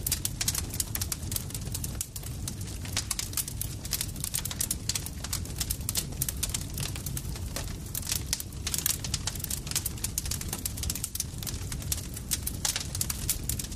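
Campfire crackling: frequent sharp pops and snaps over a steady low rumble of burning wood.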